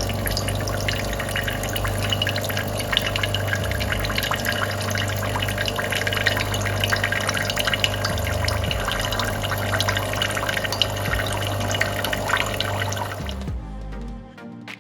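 DeLonghi Magnifica S espresso machine pumping water through its spout into a pot during the rinse stage of descaling: a steady pump hum under continuous splashing water. It cuts off suddenly near the end and soft music follows.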